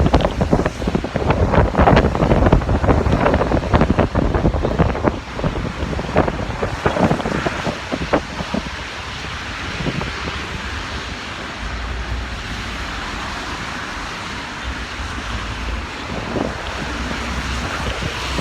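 Heavy wind gusting and buffeting the microphone over a steady hiss of rain. The buffeting eases after about eight seconds, leaving a steadier hiss.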